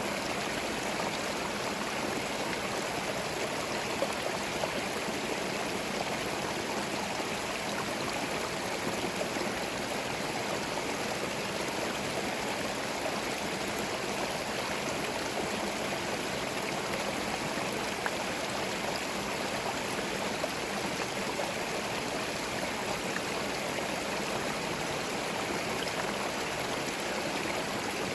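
Small forest stream running over stones: a steady babbling and gurgling of water with a few small splashes.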